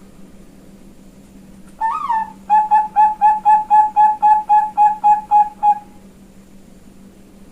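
Female Bangkok-line zebra dove (perkutut) singing: one swelling opening note, then a fast, even run of about a dozen short coos, roughly four a second, over a steady low hum.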